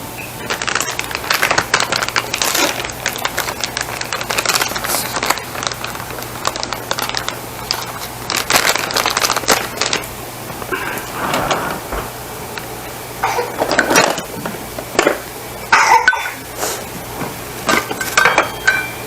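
Utensil scraping and clinking in a pan as a chicken and spinach mixture cooks and is worked with a spoon, dense for the first half and then a few separate knocks and clinks.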